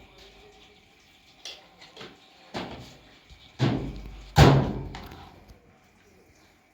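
A series of about five knocks and thuds, growing louder, the last two heavy and each followed by a short low ringing tail.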